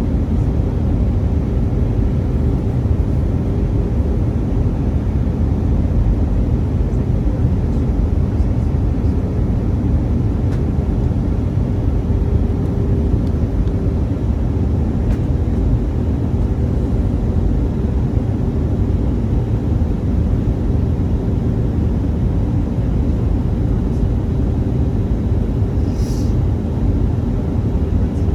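Airbus A319 in flight, heard from inside the cabin: a steady, loud rumble of engines and airflow with a constant hum. There is a brief faint high-pitched sound near the end.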